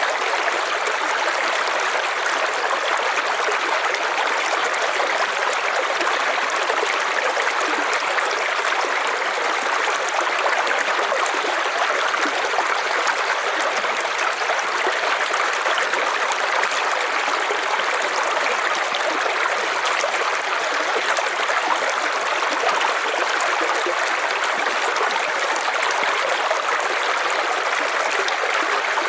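River water flowing in a steady, unbroken rush, with no changes or distinct splashes.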